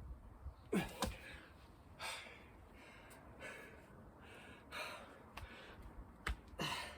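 A man breathing hard and gasping from exertion, with a few grunting exhales and a couple of sharp thuds, about a second in and near the end.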